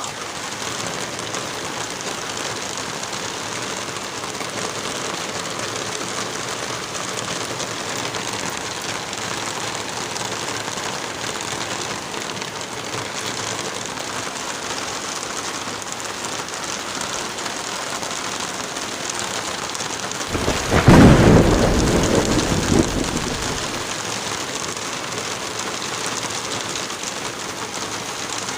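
Steady heavy rain, with a thunderclap about two-thirds of the way through that rumbles for two to three seconds and fades back into the rain.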